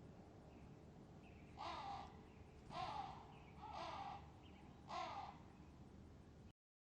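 A crow cawing four times, harsh calls about a second apart, over faint outdoor background noise. The sound then cuts off suddenly near the end.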